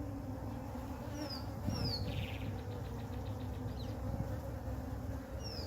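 Honey bee swarm buzzing in a steady hum. A bird's short falling chirps come in pairs about a second in and again near the end.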